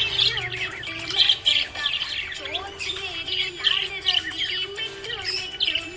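Small pet parrots chirping and twittering nonstop in quick rising and falling calls, over background music.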